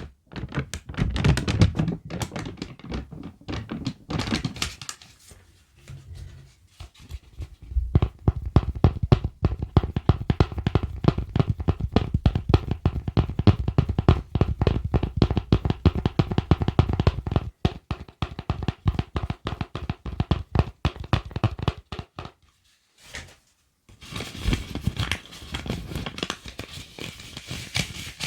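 Close-miked ASMR tapping and scratching on objects: quick, irregular runs of taps with dull thunks, with a short break near the end.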